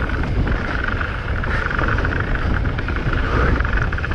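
Mountain bike descending fast over rough trail: steady wind buffeting on the camera microphone with a continuous rumble and rattle from the bike.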